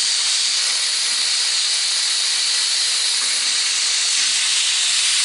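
Small wire brush spinning in a power drill, scouring light surface rust off steel body panels: a loud, steady hiss.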